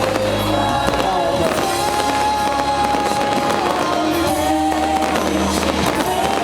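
Fireworks bursting and crackling over loud music with held notes and a steady bass line.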